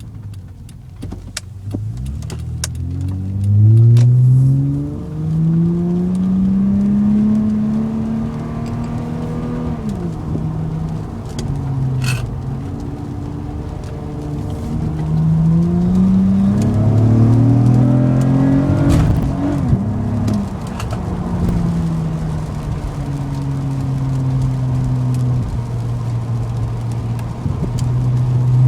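Car with an RV6 aftermarket exhaust accelerating: the engine note climbs in pitch, drops at a gear change and climbs again, twice over, then holds a steady pitch while cruising.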